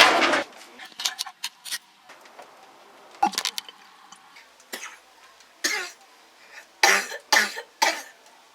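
A person coughing in short fits: a loud cough at the start, then scattered coughs, with three close together near the end, a reaction to the burn of hot bird-pepper tea.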